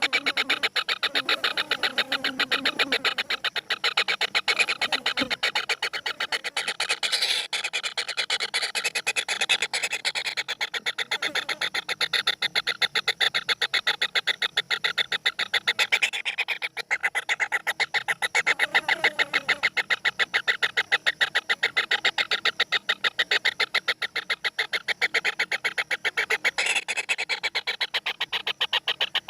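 Birds calling in a rapid, continuous stream of short repeated notes.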